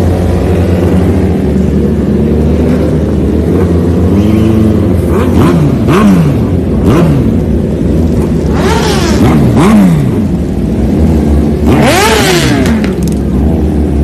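Motorcycle engine idling and being revved in repeated throttle blips, each time rising in pitch and falling back, with the biggest rev near the end.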